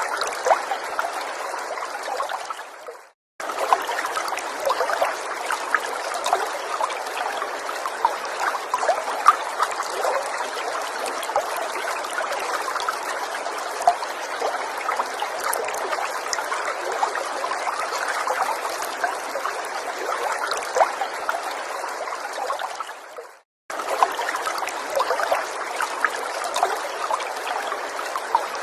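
Small forest stream trickling and splashing steadily, with many small droplet-like splashes. The sound briefly fades to silence about three seconds in and again near the end, then comes straight back each time, as at the seams of a repeating recording.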